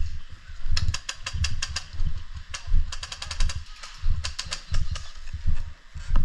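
Airsoft electric gun firing several short bursts of rapid, evenly spaced clicks. The owner takes this for the gun not feeding BBs and blames weak batteries.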